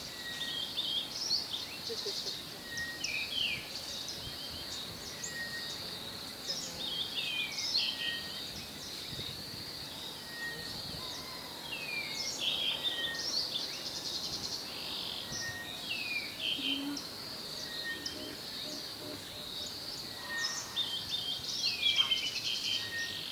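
Wild birds calling and chirping over a steady high-pitched insect drone, with one short note repeated every couple of seconds.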